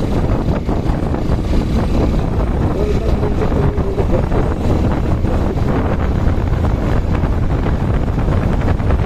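Wind rushing hard over the microphone of a moving motorcycle, with steady road and engine noise underneath.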